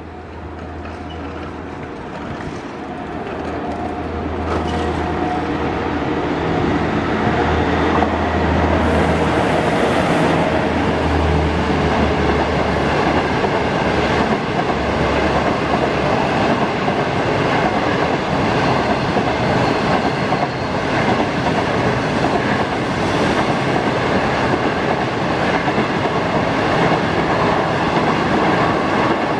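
HXD1D electric locomotive and its 25K passenger coaches rolling past at speed, with clickety-clack from the wheels on the rail joints. The noise grows over the first few seconds as the train comes close, then holds steady. A low hum under the wheel noise stops about halfway through.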